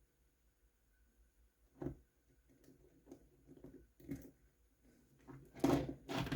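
Faint clicks and taps of small parts being handled while screwing the shocks onto a 1/24-scale RC truck, with a louder clatter of handling near the end.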